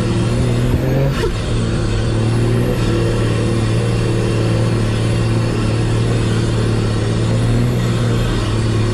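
Nissan TD42 4.2-litre inline-six diesel engine running steadily under load as the vehicle climbs a soft sand hill. About a second in the engine note briefly breaks and shifts in pitch, then holds steady.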